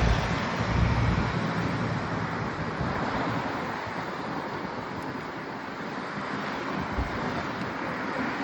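Wind buffeting the camera's microphone while cycling, a steady broad rush. A passing car's sound fades away over the first couple of seconds.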